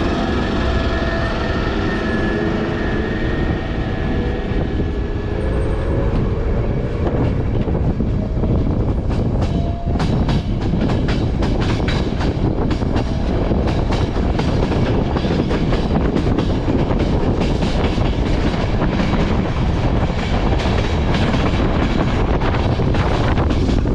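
Passenger train running on the rails: a steady rumble, with wheels squealing in several shifting tones over the first few seconds. From about ten seconds in, a dense rapid clatter of clicks and knocks takes over.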